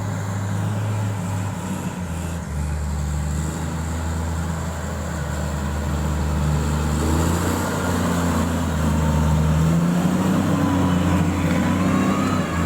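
Heavy road-building equipment's diesel engine running steadily, its note shifting and its sound growing louder over the second half.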